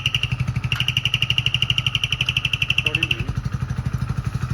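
Motorcycle engine running steadily with a turbo whistle on its exhaust: a high whistle chirps with each exhaust pulse, drops out briefly about half a second in, then stops about three seconds in while the engine keeps running.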